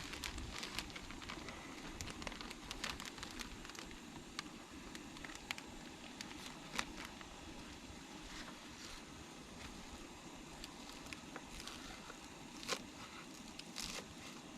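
Crumbled sausage sizzling and crackling in a frying pan, a steady fizz with scattered sharp pops and clicks.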